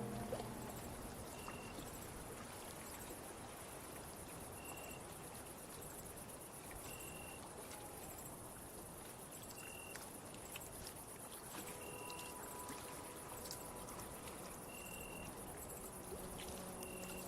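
Night-time insect ambience: a steady, high, fine trill, with a short high cricket chirp repeating every two to three seconds.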